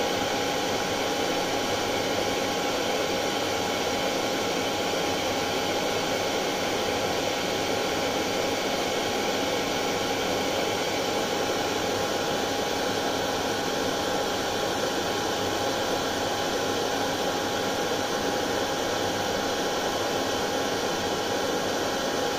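Hair dryer running continuously: a steady rushing blow of air with a constant motor whine, played as a soothing sound for colicky babies.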